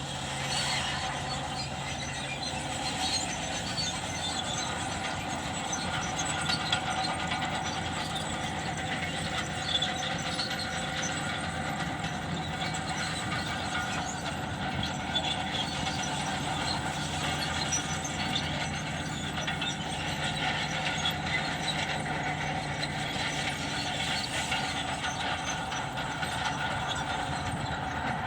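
Heavy earthmoving machine running steadily, a diesel engine with high metallic squealing and clanking over it.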